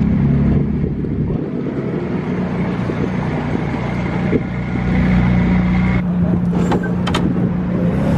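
Car engines running at low revs as cars pull out of a car meet, a steady low rumble. A couple of brief sharp clicks come about six to seven seconds in.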